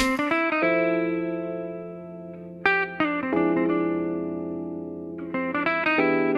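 Background music: a guitar playing slow, sustained chords without vocals. Three chords, at the start, near the middle and near the end, are each struck and left to ring and fade.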